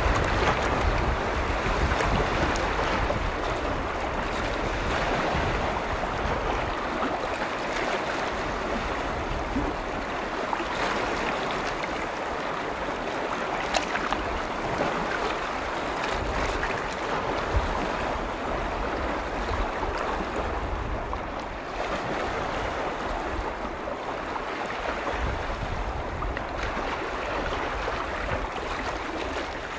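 Waves on a large freshwater lake washing steadily against the shore, with wind buffeting the microphone in low rumbles that come and go.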